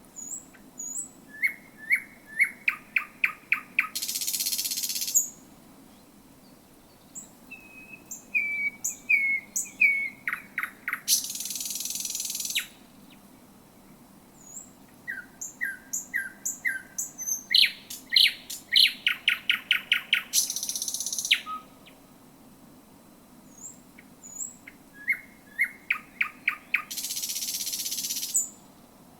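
Thrush nightingale singing four song phrases. Each opens with a few soft whistled notes, builds into a rapid series of loud clicking notes, and ends in a harsh rattle lasting about a second. A faint low steady hum runs underneath.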